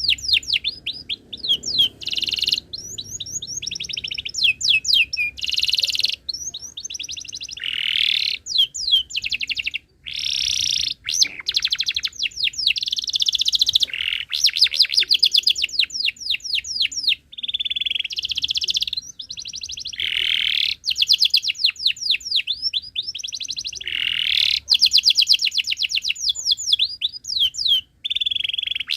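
Domestic canary singing continuously: long rolling trills of fast repeated notes alternating with chirping phrases and short pauses.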